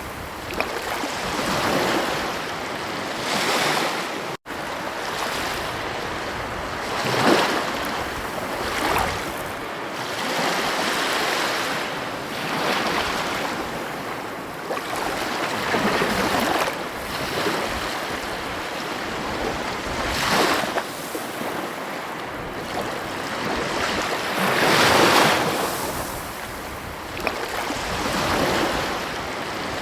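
Ocean surf washing onto a beach, the wash swelling and easing every few seconds as waves break. The sound drops out for an instant about four seconds in.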